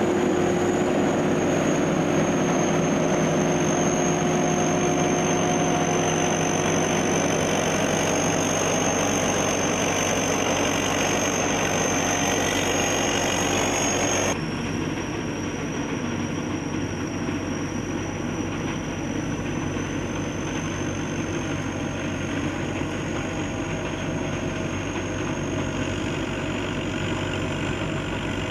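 SS-200 A rice combine harvester running steadily, its engine and machinery giving a constant drone with a thin high whine. About halfway through the sound changes abruptly and becomes a little quieter.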